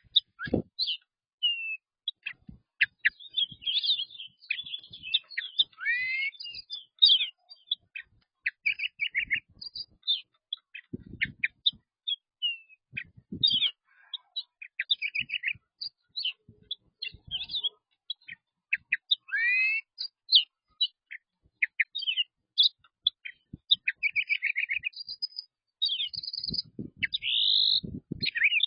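Small birds chirping rapidly and almost without pause: short high chirps, fast trills and a few rising calls. A few faint low thumps are mixed in.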